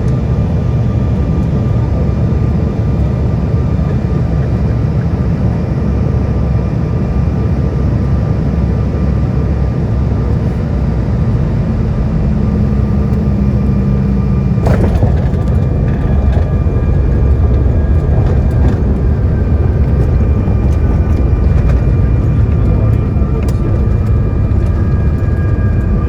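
Jet airliner cabin noise: a loud, steady low rumble of engines and rushing air, with faint steady whining tones over it. A sudden knock about fifteen seconds in, after which the rumble grows a little louder.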